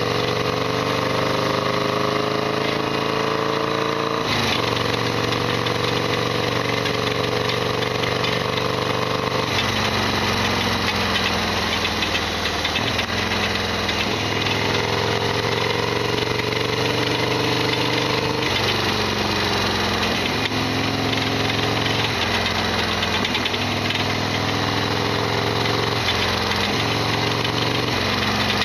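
Modified Harley-Davidson XL1200R Sportster V-twin engine running on the road, its pitch changing several times as the revs rise and fall, with clear shifts about 4 and 9 seconds in. It carries a loud rattling noise that the owner calls an abnormal noise.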